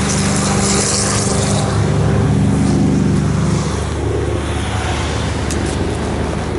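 A motor vehicle's engine running steadily, with a hum of low tones over a hiss of road or wind noise.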